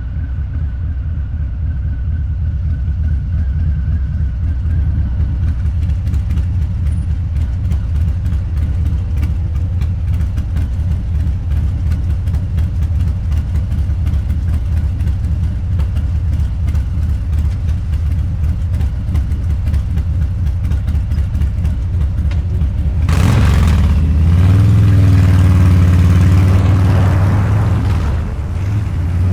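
Harley-Davidson Low Rider's 129ci V-twin, fitted with a Two Brothers Racing exhaust, running with a steady low rumble while riding. About 23 seconds in the throttle opens: the engine gets louder and its pitch rises for about five seconds, then it eases off near the end.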